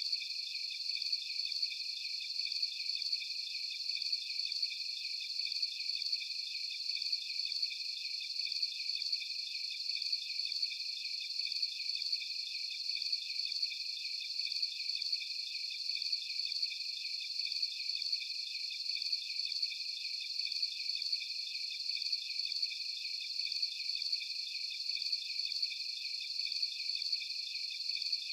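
Dense chorus of crickets and other night insects trilling: a steady, high-pitched, rapid pulsing with no lower sounds under it.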